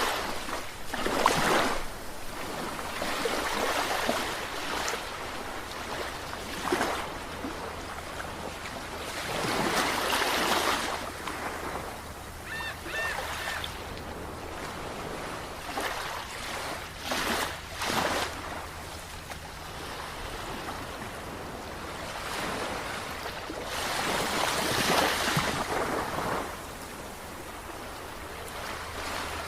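Sea waves breaking and washing in, the noise swelling and falling away in surges every few seconds.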